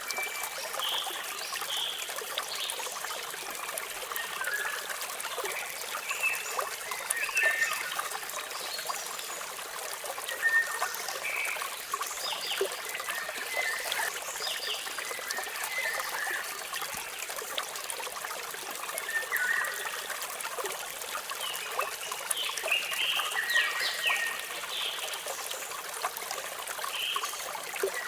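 Steady rush of falling water, with short bird chirps coming and going over it every second or two.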